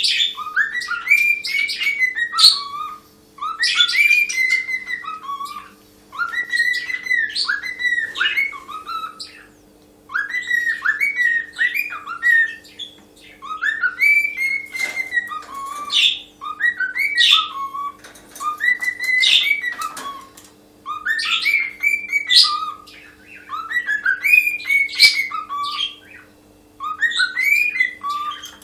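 Cockatiel whistling a melody: the same short phrase of gliding notes, repeated about every three seconds with brief pauses between. A faint steady low hum runs underneath.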